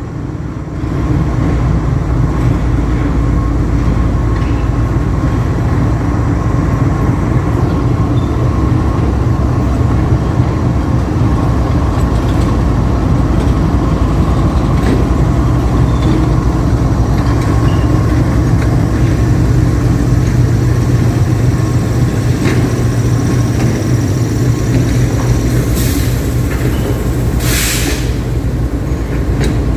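GEU-40 diesel-electric locomotive hauling a passenger train as it departs, the engine running steadily under power over the rumble of the train. Two short hisses come near the end.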